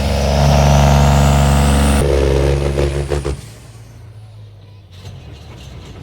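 Turbocharged pulling-tractor engine running flat out under load, with a turbo whine climbing steadily in pitch. About three seconds in, the sound drops away abruptly to faint background noise.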